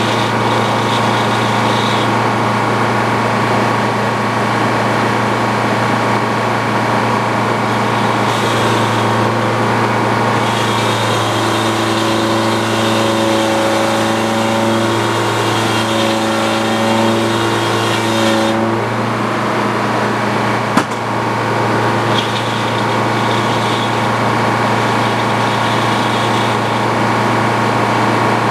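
Antique Frick sawmill running, its engine droning steadily under the circular saw. From about 11 to 18 seconds extra humming tones join in, and a single sharp click sounds about 21 seconds in.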